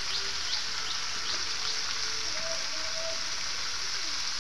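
Chicken and jackfruit curry frying in a metal karahi over a gas burner, a steady sizzle.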